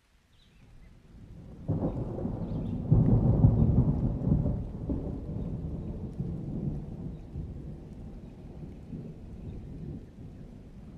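A roll of thunder in a rainstorm: it breaks in suddenly about two seconds in, is loudest around three to four seconds, then rumbles away slowly to the end.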